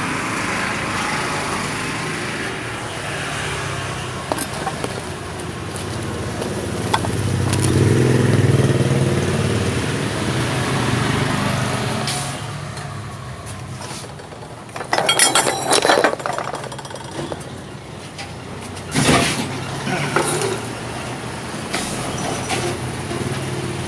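Honda Vario scooter engine running through a hollowed-out exhaust with a perforated-plate baffle. The exhaust note swells about eight seconds in and then settles, with a few short, louder noisy bursts in the second half.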